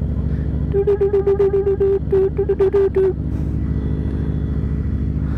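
Yamaha FZ-07's parallel-twin engine running at idle. For a couple of seconds a rapid series of short, loud, horn-like beeps, about five a second with a brief break in the middle, sounds over it.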